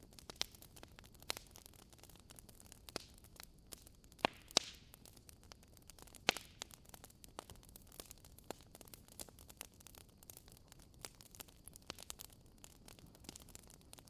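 Wood fire crackling in a fireplace: irregular sharp pops and snaps over a faint steady hiss, with a few louder pops about four to six seconds in.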